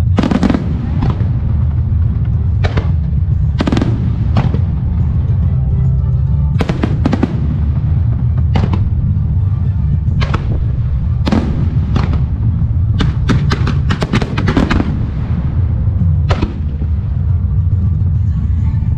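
Fireworks shells bursting one after another in a music-synchronised starmine, with sharp bangs and a rapid string of them past the middle. Music plays underneath, over a steady low rumble.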